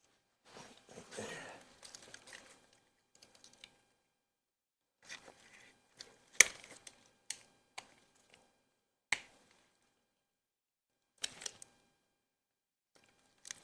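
Hand tools and small engine parts knocking and clicking during engine teardown work. A brief rustle comes near the start, then a handful of separate sharp clicks, the loudest about six seconds in.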